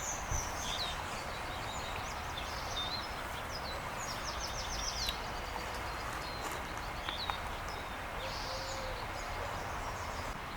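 Several small birds chirping, with short high calls scattered throughout and a quick rapid trill about halfway, over a steady outdoor background hiss.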